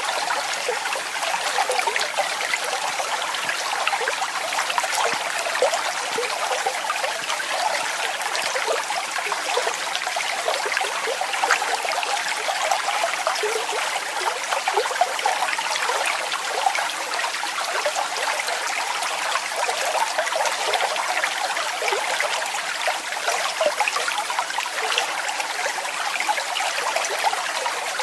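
Waterfall water falling and splashing steadily: a continuous even rush full of small splashes, with little deep rumble.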